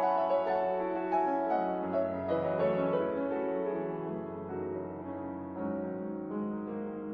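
Background piano music: soft, slow notes, getting a little quieter partway through.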